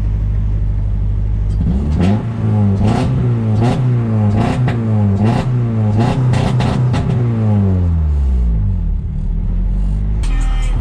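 Honda H22A4 2.2-litre four-cylinder engine idling, then revved up and down repeatedly with quick throttle blips for about six seconds before dropping back to a steady idle. The engine has just been put back together and is running after its first start-up.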